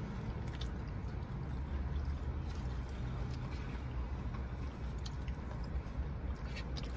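Car engine idling, a steady low rumble heard inside the cabin, with a few faint small clicks over it.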